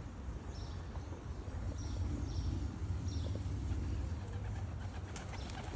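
Outdoor ambience: a steady low rumble with a few short, high bird chirps, about four of them in the first half, and a couple of faint clicks near the end.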